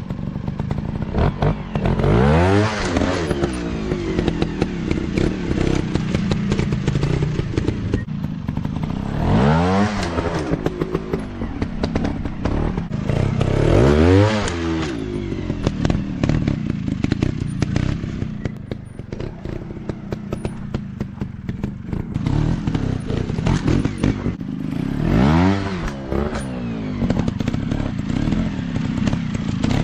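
Dirt bike engine running, with the throttle blipped to rev up and fall back sharply about four times, and rattling and knocks in between.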